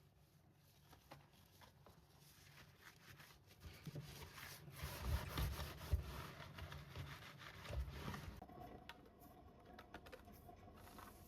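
Rubbing and rustling with scattered light taps, loudest for a few seconds in the middle.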